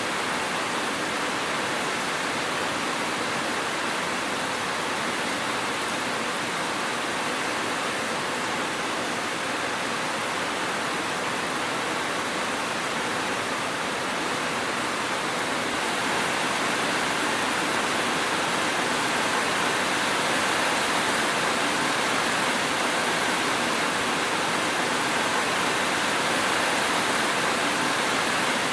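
Steady heavy rain falling, a dense even hiss with no thunder, growing slightly louder a little past halfway.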